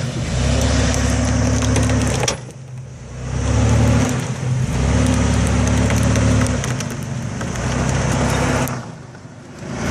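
Ford Explorer engine pulling under throttle in pushes of a couple of seconds, easing off briefly about two seconds in and again near the end, with scattered crackling and crunching from the tyres working over dirt and rock.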